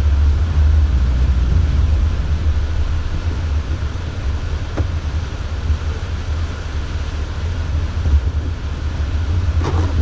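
Steady low drone of a Jeep's engine and drivetrain heard from inside the cab while driving, with one faint click about halfway through.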